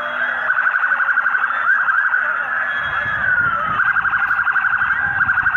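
Several sirens sounding at once: a fast pulsing warble held at one high pitch, with wails sliding down across it. A low rumble comes in about halfway.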